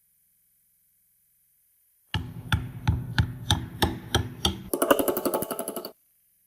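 A series of about eight evenly spaced sharp knocks, roughly three a second, then a fast run of rapid ticks for about a second that cuts off abruptly.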